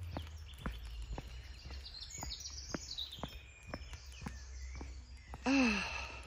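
Footsteps walking along a lane at about two steps a second, with songbirds singing. Near the end, a short vocal sound falling in pitch, the loudest thing heard.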